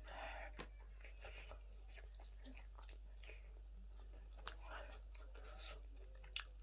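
A person chewing a sauced chicken wing close to the microphone: soft wet mouth sounds with scattered small smacks and clicks.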